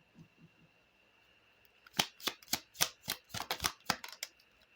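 Lenormand cards being handled and shuffled: a quick run of about a dozen sharp card snaps and flicks, starting about two seconds in and lasting about two seconds.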